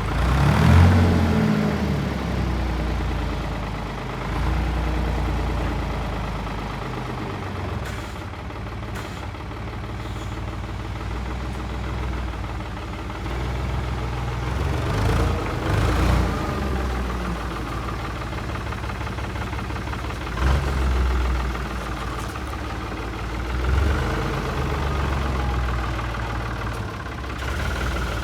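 Diesel engine of a Heden FC1340 truck running, its speed rising and falling several times: once just after the start, again about halfway through, and twice more later on.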